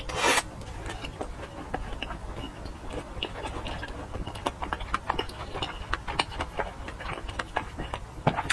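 A bite into a sausage right at the start, then close-miked chewing: a run of small, wet mouth clicks and smacks, several a second.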